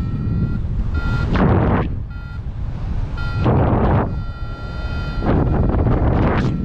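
Paraglider variometer beeping at a steady high pitch, short beeps about once a second with one longer beep in the middle, the sign of climbing in lift. Loud gusts of wind rush over the microphone in surges.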